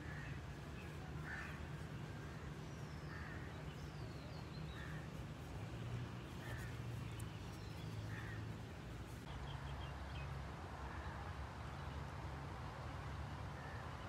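Birds calling in the background: harsh caws repeated every second or two, with a few higher chirps, over a low steady hum.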